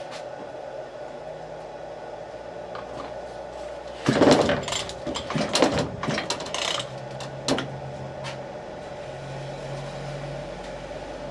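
Post hole digger's recoil pull-starter being pulled, a loud rattling, ratcheting clatter for about three seconds midway, over a steady faint hum.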